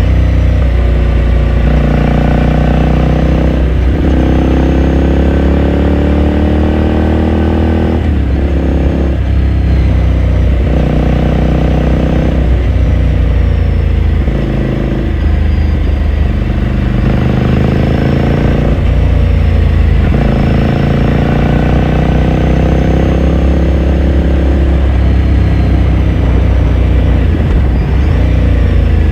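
Ducati Scrambler Sixty2's 399 cc air-cooled L-twin engine under way, accelerating repeatedly: its pitch rises over a few seconds and drops back at each gear shift, several times over.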